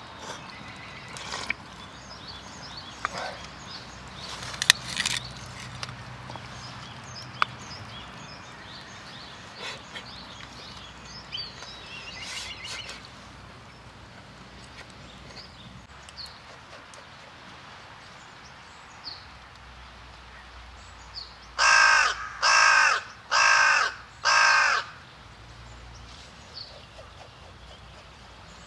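A bird gives four loud, harsh calls in a row, evenly spaced about three-quarters of a second apart, late in the stretch. Before them come scattered light clicks and taps and faint high bird chirps.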